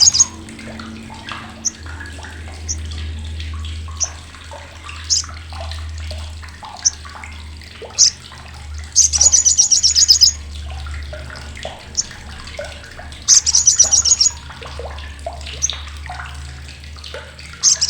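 Sogok ontong (sriganti) sunbird giving its loud, harsh, sharp chattering call (crecetan): two rapid rattling trains about a second long, one a little past the middle and one later, with single sharp high chips scattered in between. A steady low hum runs underneath.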